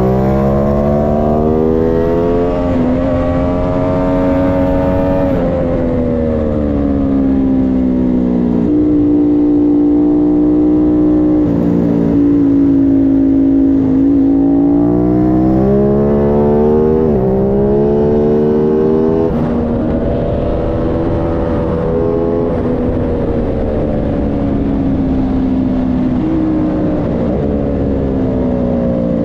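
Aprilia Tuono 660 Factory's parallel-twin engine at full race pace on track, its note climbing and falling again and again, with sudden jumps in pitch at the gear changes.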